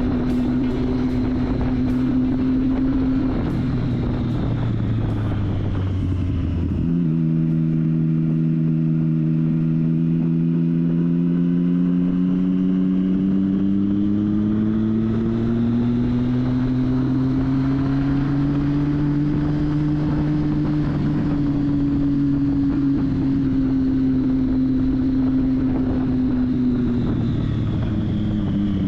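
Triumph Street Triple's inline-three engine running on the road, with wind noise. The revs fall away, jump sharply about seven seconds in, climb slowly for several seconds, then ease off and drop again near the end.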